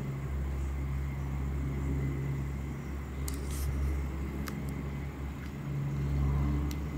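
Steady low rumble of a US military aircraft's engines, with a few faint clicks.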